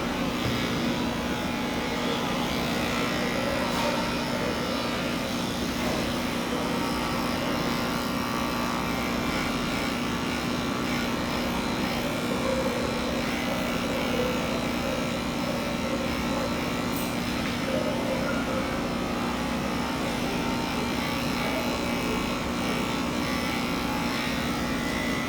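Electric pet clippers running with a steady hum during a cat shave-down.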